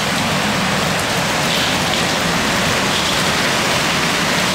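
Heavy hurricane rain pouring down in a steady, loud rush.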